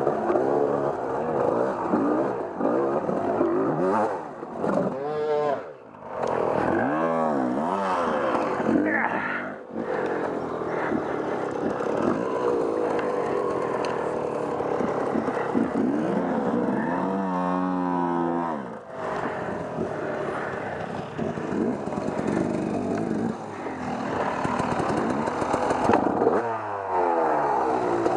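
Off-road motorcycle engine being ridden hard, its revs rising and falling over and over as the throttle is worked, with a couple of brief drops when the throttle is shut off.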